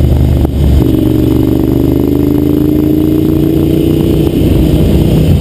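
Ducati Monster 795's air-cooled L-twin through a Termignoni exhaust, pulling under acceleration. The sound dips briefly about half a second in, then the engine note rises steadily.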